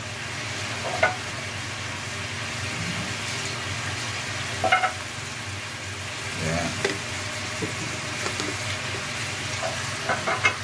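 Chicken wings frying in a pot on a gas stove, a steady sizzling hiss, with a few brief light taps as whole black peppercorns are shaken in from a glass jar.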